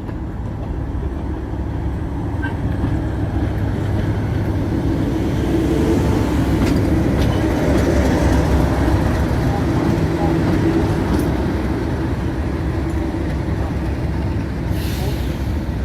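Heritage diesel locomotive's engine running with a steady low rumble, growing louder towards the middle and then easing off a little. A short hiss comes near the end.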